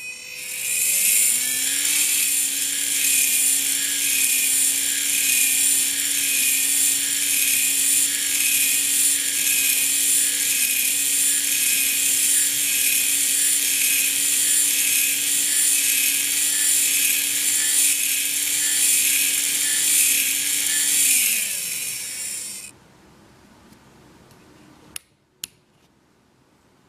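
Two small N20 12-volt gear motors spinning up with a high-pitched whir, rising in pitch over the first second or two. They run steadily for about twenty seconds, then wind down, falling in pitch, and stop. Two sharp clicks follow near the end.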